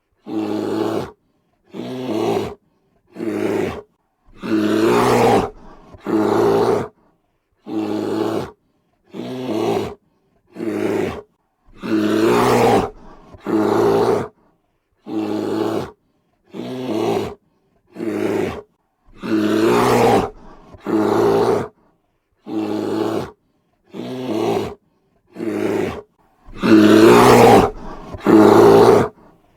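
A lion roaring in a long series of deep, grunting calls, about one a second with silence between. Some calls are drawn out longer, and the loudest come near the end.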